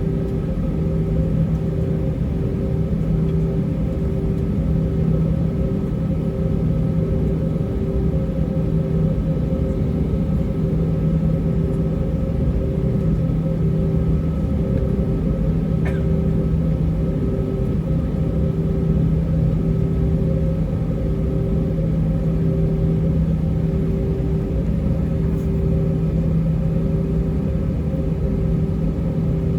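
Steady cabin rumble of an Airbus A320-232 taxiing, its IAE V2500 engines at idle. A low hum runs throughout with a higher tone pulsing evenly over it, and there is one faint click about halfway through.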